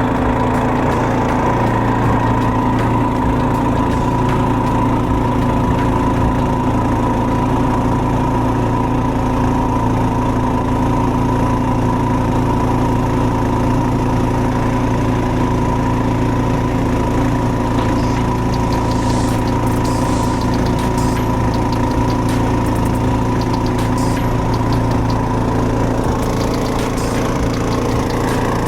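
Predator 224cc single-cylinder four-stroke engine on a longtail mud motor, running at a steady throttle with an unchanging pitch.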